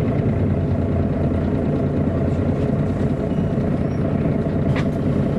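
Diesel engine of a MAN A23 NG313 articulated city bus running steadily, heard aboard the moving bus, with one short click about five seconds in.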